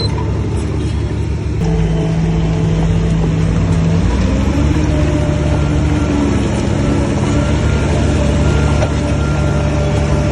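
Heavy diesel engine of earthmoving machinery running under load. It steps up about one and a half seconds in and shifts pitch again near four seconds, then holds steady.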